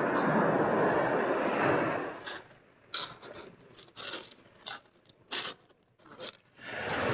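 Sea waves washing onto the shore: a surge of surf fades about two seconds in, and the next one rises near the end. Scattered sharp clicks and scrapes come in the lull between them.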